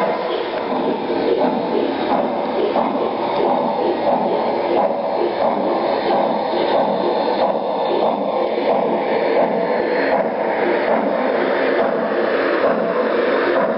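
O scale model train running on three-rail track: a steady rumbling hum of the locomotive's motor and wheels on the rails, with faint ticking from the track.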